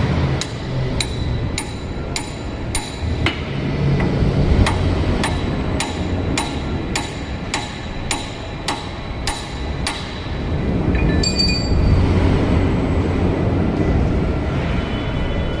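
Hammer striking the steel hub bolts of a 7-ton forklift's front wheel hub, metal on metal, about two ringing blows a second, stopping about ten seconds in, followed by a few light metallic clinks. A steady low rumble runs underneath.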